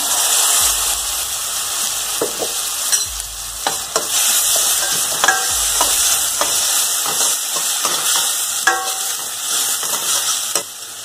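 Ginger-garlic paste hitting hot oil and onions in a stainless steel kadai, sizzling steadily, while a metal spoon stirs and scrapes, clinking against the pan now and then. The sizzle eases slightly near the end.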